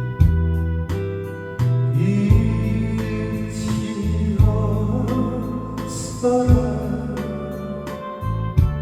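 Music: a singing voice, the melody line of a cover song, held and wavering through the middle of the stretch, over steady instrumental accompaniment with a sustained bass.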